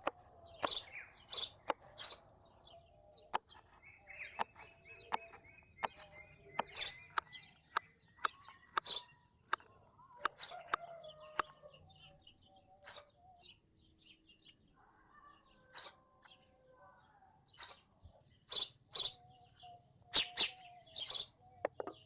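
Small birds chirping outdoors: short, high calls repeating every second or so, with occasional sharp clicks between them and fainter lower calls in the background.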